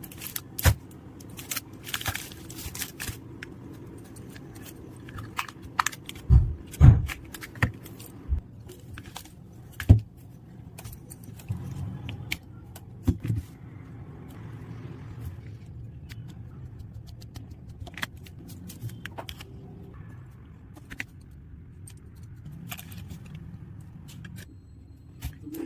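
Irregular clicks, taps and knocks of craft tools and materials being handled on a work surface, over a low steady hum. The heaviest knocks come about six to seven seconds in and again at ten seconds.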